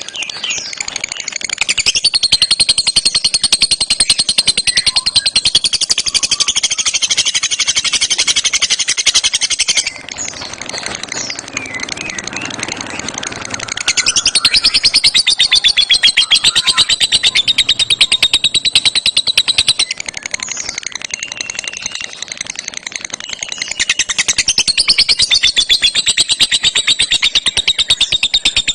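A lovebird singing a fast, unbroken chattering trill in three long, loud bouts, each several seconds long, with softer chatter between them.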